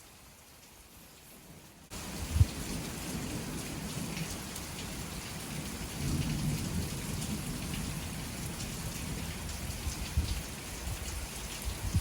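A summer thunder shower: steady rain falling, with low rolling rumbles of thunder that swell about six seconds in. It starts abruptly about two seconds in, after a quiet stretch.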